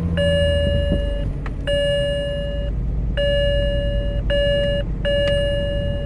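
A car's electronic warning chime repeating about once a second, five beeps, over a 2006 BMW E90's six-cylinder engine idling just after startup. The idle is rough and shaky, a misfire the owner traces to a bad ignition coil.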